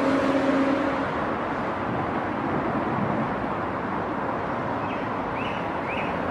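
High-speed train running with a steady rushing noise. A low hum fades out about a second in, and a few short chirps come near the end.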